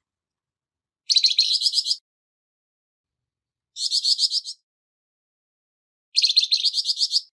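A flamboyan bird giving its harsh, rasping call: three short chattering phrases, each about a second long, of rapid repeated notes at about ten a second, with pauses between.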